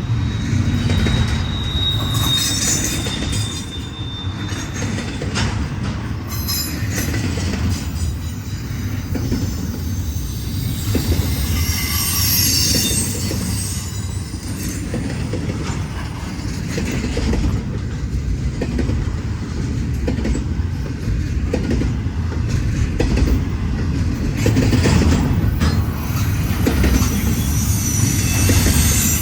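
Intermodal freight train rolling past with a steady rumble, wheels clicking over rail joints. A thin, high wheel squeal sounds in the first few seconds, with more squealing about halfway through.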